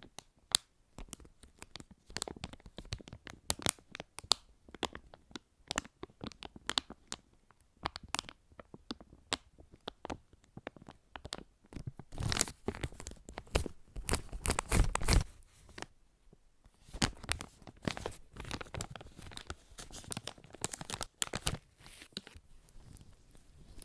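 Close-miked ASMR handling sounds: scattered taps and clicks, with a louder stretch of crinkling, tearing-like rustle about halfway through.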